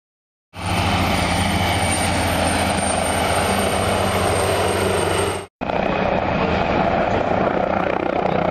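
Helicopter running steadily, its rotor and turbine making a low hum with a thin high whine. The sound starts abruptly about half a second in, drops out briefly after about five seconds, and resumes without the whine.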